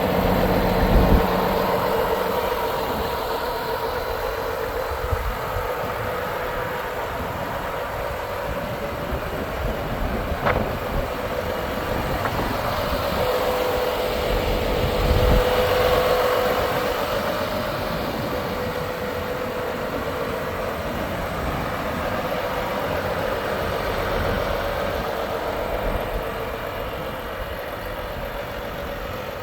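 Volvo FH 500 truck's 13-litre six-cylinder diesel idling steadily, with a brief thump about a second in.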